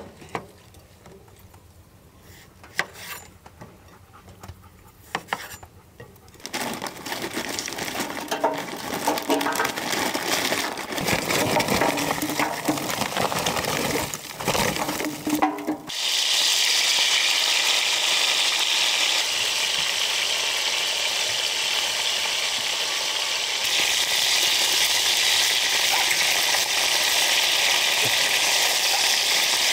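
Scattered clicks and knocks, then uneven clattering for about ten seconds. About halfway through, a loud, steady sizzle of beef liver frying in hot fat sets in and holds.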